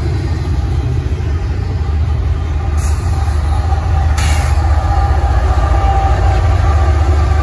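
Freight train running past: a steady, heavy low rumble of the train, with a faint steady whine over it and two short hissing bursts about three and four seconds in.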